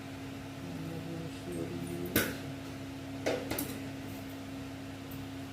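Front-load washing machine being started: a sharp click about two seconds in, then a quick double click a second later, over a steady low hum.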